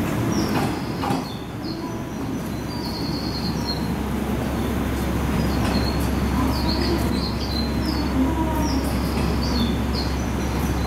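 JR Kyushu 415-series electric train pulling slowly into the station, with a steady low rumble of motors and wheels. Birds chirp repeatedly over it in short, high calls.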